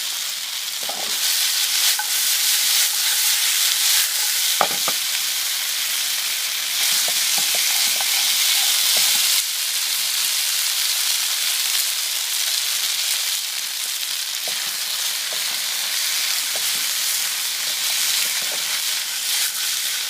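Cornstarch-coated pork ribs sizzling steadily in hot oil in a wok on their first, partial fry, with a few light knocks.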